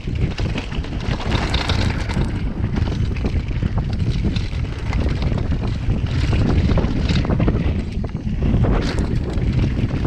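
Wind buffeting a chest-mounted action camera's microphone at speed, over the rumble and rattle of a downhill mountain bike running over rough trail, with a few brief hissy surges from the tyres.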